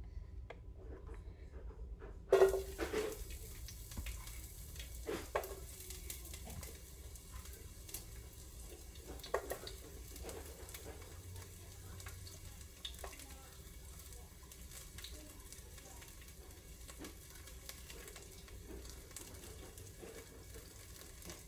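Onion dropped into hot oil in a pot, hitting with a loud hiss about two seconds in and then sizzling steadily, with scattered pops and clicks.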